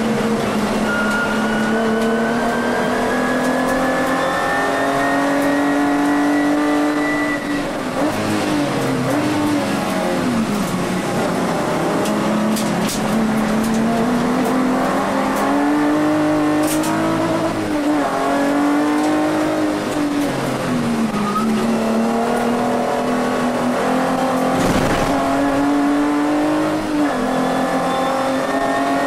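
Volkswagen Vento VR6 race car's VR6 engine at full race pace, heard from inside the cabin. The revs climb steadily for the first seven seconds or so, drop sharply, then fall and rise again several times as the driver lifts off and changes gear through the corners.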